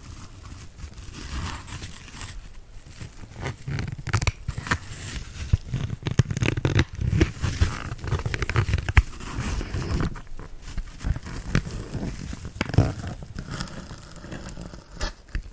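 Needles being pushed into a kitchen dish sponge close to the microphone: irregular crackling and scratching with sharp clicks and soft low thumps, thinning out near the end.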